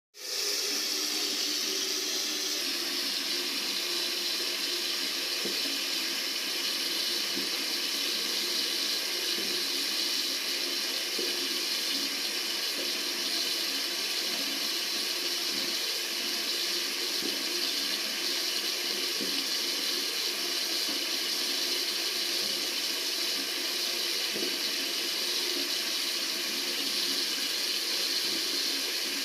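Tap water running in a steady, unbroken stream: a continuous even hiss that starts right at the beginning and holds at one level.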